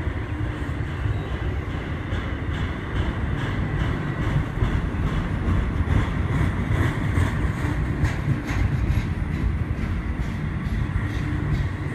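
Intermodal freight train cars, trailers on flatcars and containers, rolling past close by: a steady rumble of steel wheels on the rails with frequent clicking and clacking.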